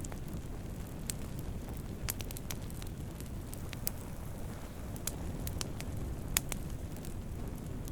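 Campfire of burning wood: a steady low rush of flames with irregular sharp crackles and pops, the loudest pop about six and a half seconds in.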